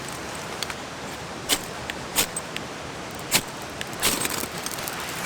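Wood fire crackling, with three sharp loud pops and a burst of smaller crackles near the end, over the steady rushing of a stream.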